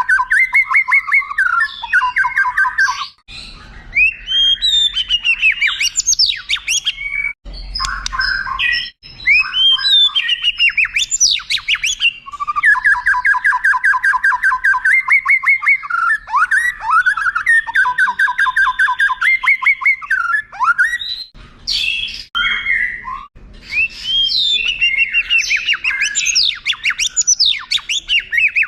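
White-rumped shama (murai batu) singing a long, varied song: fast runs of rapidly repeated notes, rising and falling whistles and harsher notes, broken by a few brief pauses.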